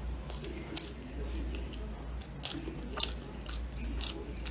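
Close-up chewing of a mouthful of food, with a few short sharp clicks over a steady low hum.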